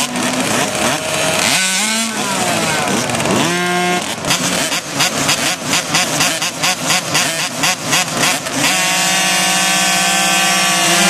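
Small two-stroke 50cc motocross bike engines racing, revving up and down, then blipping on and off rapidly for several seconds before settling into a steady high-revving note near the end.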